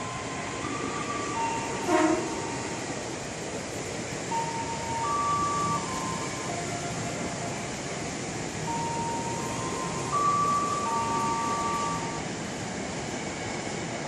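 KRL electric commuter train running through the station without stopping, its wheels on the rails making a steady rolling noise, with a brief loud sound about two seconds in. A simple melody of held notes plays over it.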